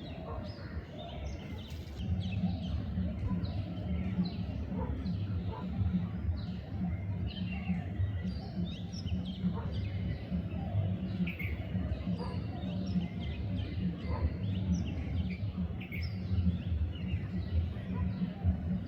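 Bulbuls chirping: many short, repeated calls throughout, over a steady low hum that comes in about two seconds in.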